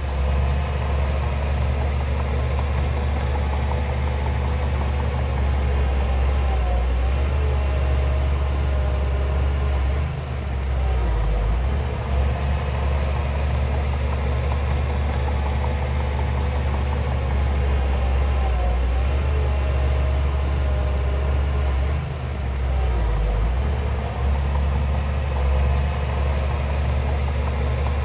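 Heavy diesel engine of earthmoving machinery running steadily with a deep hum, its level dipping briefly about ten seconds in and again just past twenty seconds.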